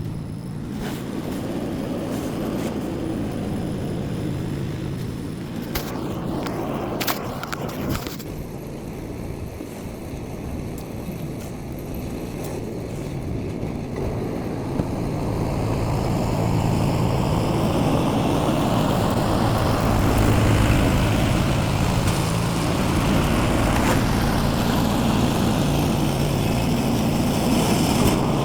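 Small gasoline engine of a snowblower running steadily, with a few sharp knocks about six to eight seconds in. Partway through it grows louder and stays loud.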